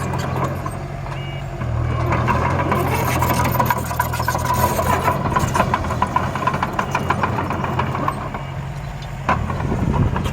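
A miniature construction vehicle runs with a steady engine-like drone. Through the middle there is a clattering rattle over a steady tone, and there is a knock near the end.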